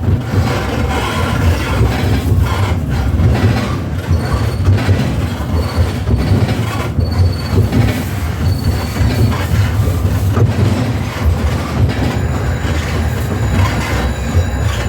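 A new tram running with a steady low rumble and intermittent high-pitched squeaks coming and going over it: the squeaking that riders complain of in these new trams.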